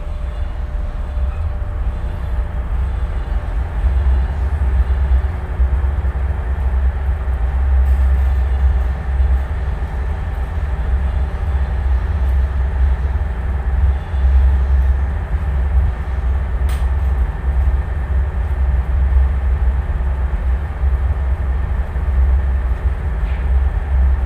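Tugboat's diesel engine running steadily under way, a loud low rumble.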